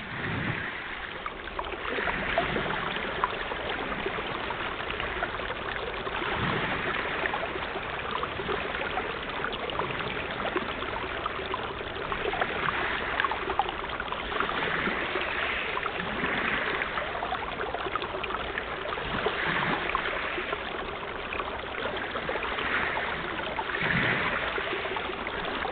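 Sea water washing and splashing, swelling and easing every few seconds.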